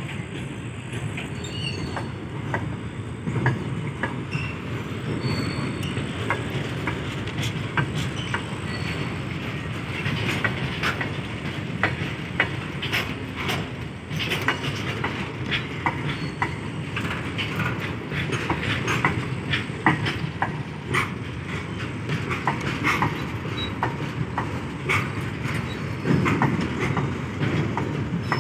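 Freight train's covered goods wagons rolling past: a steady rumble of wheels on rail, with frequent sharp clicks as the wheels cross rail joints and brief high wheel squeals now and then.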